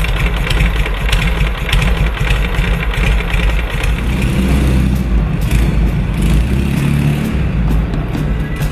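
Flat-twin engine of a vintage sidecar motorcycle running, with music playing over it.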